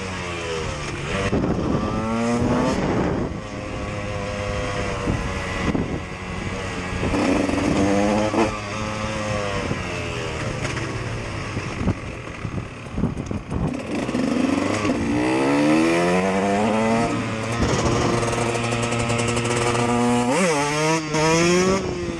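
KTM EXC supermoto engine revving hard, its pitch climbing and dropping again and again as the bike accelerates and shifts gear, with a sharp rev near the end.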